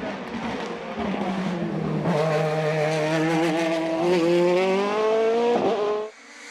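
Race car engine at full throttle on a hill climb, its pitch climbing steadily for several seconds as it accelerates through a gear. The sound drops away sharply near the end.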